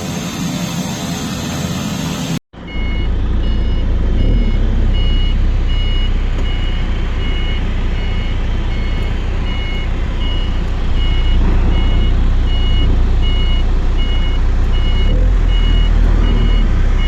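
Loud engine rumble of a tow vehicle under a reversing alarm beeping steadily, a little under twice a second, as an aircraft tug moves the King Air. Before a cut about two seconds in, a steady turboprop engine sound is heard.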